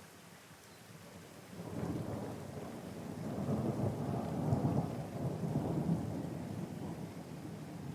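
A rumble of thunder over steady rain: it comes in about a second and a half in, swells to its loudest in the middle, and slowly dies away.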